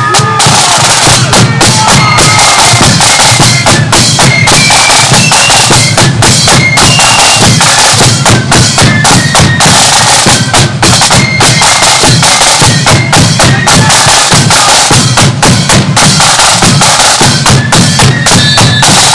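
Marching flute band playing: a high flute melody over rapid snare drumming and a heavy bass drum.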